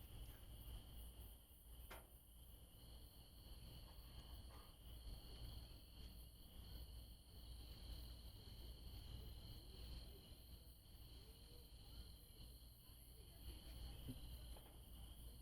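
Crickets chirring faintly and steadily in a high, continuous drone.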